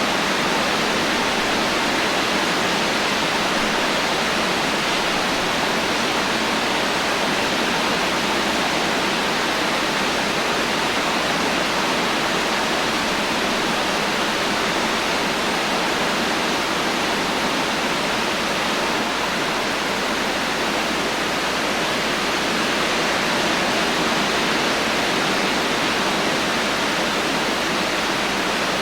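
Heavy rain falling steadily with no thunder: an even, unbroken hiss with no separate drops or other events standing out.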